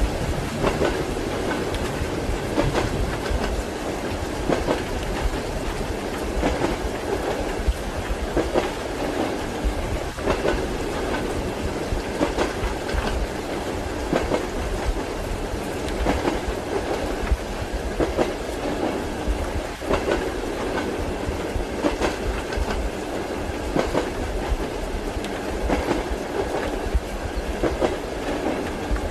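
Passenger train wheels knocking over rail joints in a clickety-clack rhythm over a steady low rumble of the running train.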